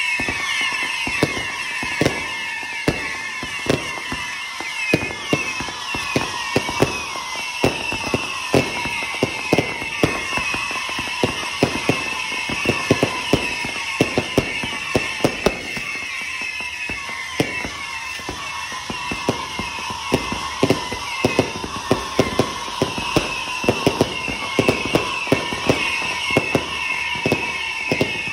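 Fireworks going off in a rapid stream of sharp bangs and crackles, several a second, with high wavering whistles sounding over them throughout.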